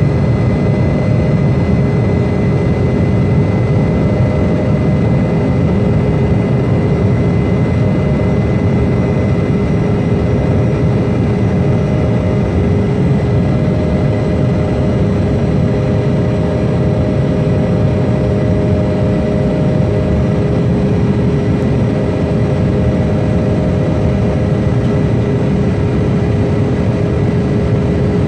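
Jet airliner engines running at a steady level: a low rumble with steady whining tones that neither rise nor fall.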